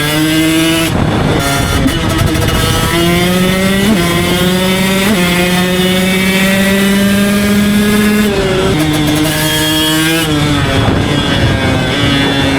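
Husqvarna 300 two-stroke dirt bike with a Pro Circuit R304 exhaust being ridden hard. The engine note climbs and then drops sharply several times as the throttle is worked, and holds a steady high note for a few seconds in the middle.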